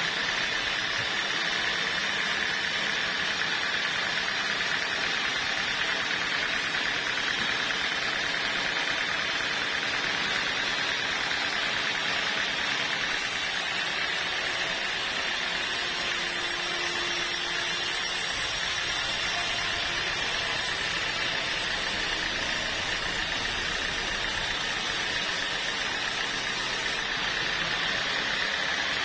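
Sawmill machinery running steadily: a motor's drone with a steady high whine that holds at one pitch throughout.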